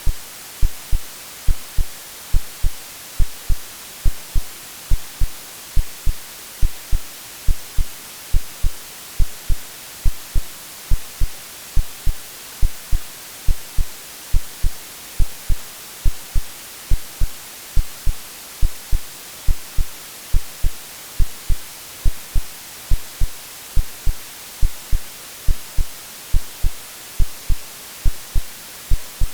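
Synthetic heartbeat, a steady lub-dub of low double thumps about once a second, over continuous white-noise hiss.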